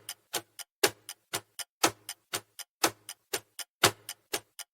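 Countdown-timer sound effect: a clock ticking steadily, about four ticks a second with a louder tick once each second.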